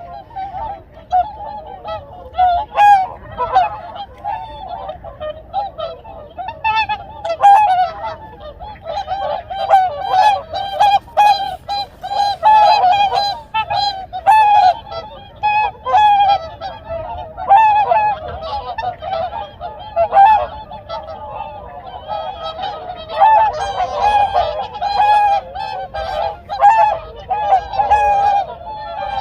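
A flock of swans honking, many overlapping short trumpeting calls in a continuous chorus that grows busier and louder a third of the way in.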